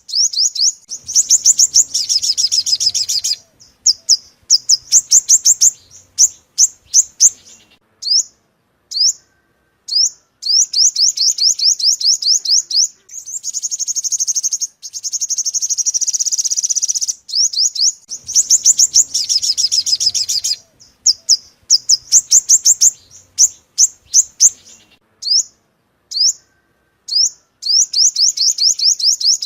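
Yellow-bellied sunbird song used as a lure call: bursts of rapid, high-pitched trills of short down-hooked notes, broken by brief pauses and single notes.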